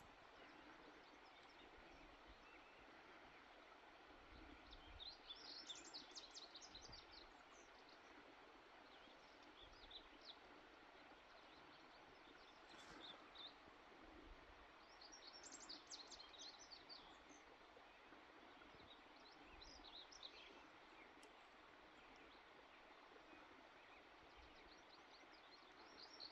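Near silence: faint outdoor hiss, with a small bird chirping in short runs of quick, high notes several times.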